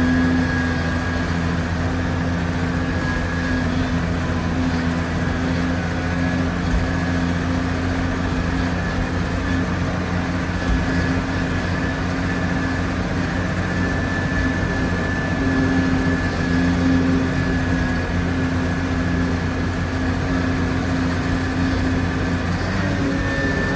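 An engine running steadily: a constant low hum with a faint, even high whine above it, no change in speed.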